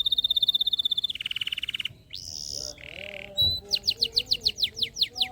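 Domestic canary singing. It opens with a rapid high trill, drops to a lower trill, gives a short higher note and a buzzy note, then a series of quick downward-sweeping notes, about eight a second.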